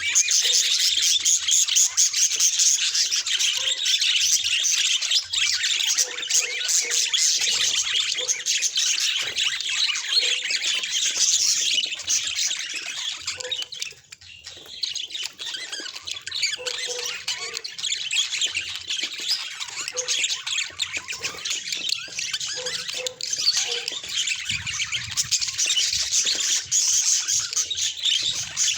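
Budgerigars chattering and warbling continuously in quick, high chirps and squawks, dropping off briefly about halfway through before picking up again.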